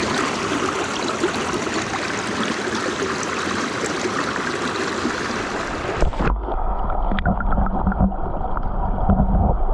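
Rushing mountain-stream water. About six seconds in, the sound turns abruptly muffled and deep, with small clicks and bubbling, as the stream sounds when heard underwater.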